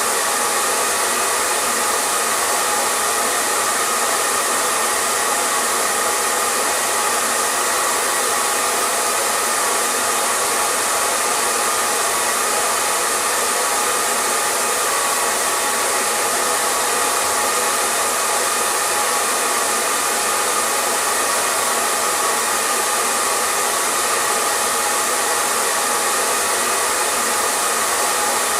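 Hair dryer running steadily: a constant airflow rush with a faint motor hum, unchanging throughout.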